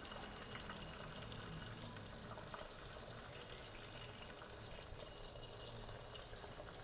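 Marinated chicken frying in oil over low heat: a steady, soft sizzle with faint scattered crackles.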